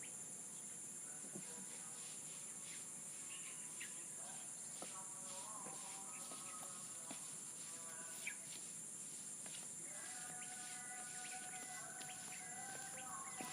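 A steady, high insect drone, with scattered bird chirps and calls over it; a longer, held call starts about ten seconds in.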